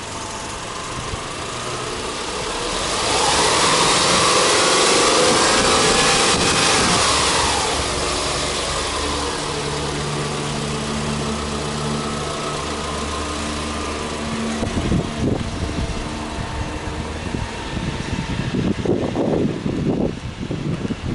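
Subaru EJ20 2.0-litre flat-four engine free-revved with no load: the pitch climbs about three seconds in, holds for a few seconds, then falls back to a steady idle. Near the end, irregular buffeting noise covers the idle.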